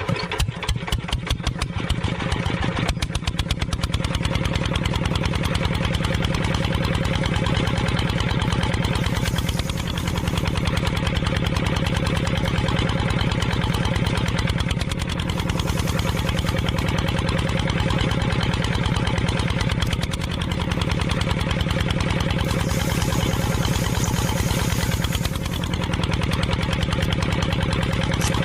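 An engine starting with a few seconds of separate chugging strokes, then settling into steady, even running.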